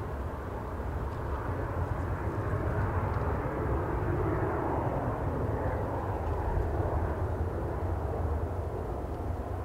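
Jet airliner engine noise that swells over several seconds and then eases off as the aircraft passes. Underneath it is a steady low rumble of strong wind on the microphone.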